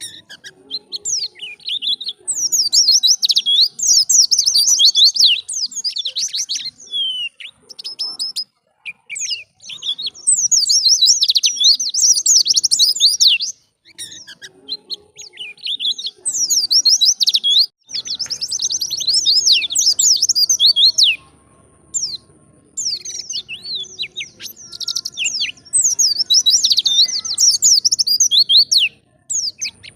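White-eye (pleci) singing a fast, high twittering song, in phrases of a few seconds broken by short pauses.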